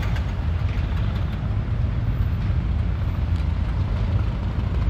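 Cars rolling slowly past in a line, their engines running with a steady low rumble.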